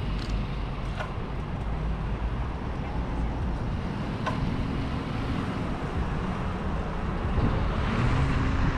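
Steady wind and road noise while riding a bicycle, with a few faint clicks.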